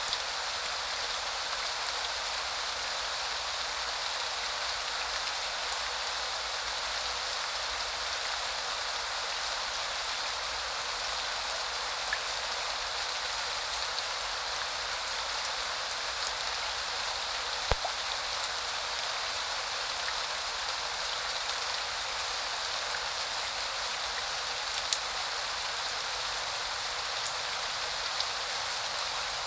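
Steady rain falling, an even hiss with a few single louder drops striking close by, one a little past halfway and one nearer the end.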